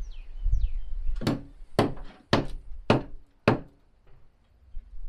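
Five hammer blows on wooden porch framing, about two a second, knocking the sagging beam assembly upward into place.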